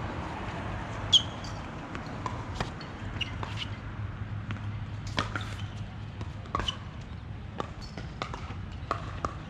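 A ball bouncing on a hard court: irregular sharp knocks, a few close together, over steady background noise.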